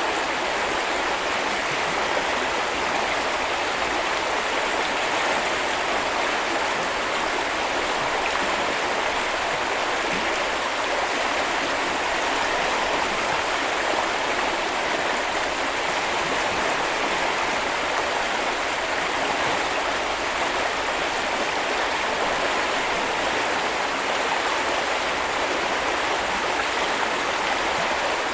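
A stream flowing steadily: an even, unbroken rush of water, bright and hissy, with little low rumble.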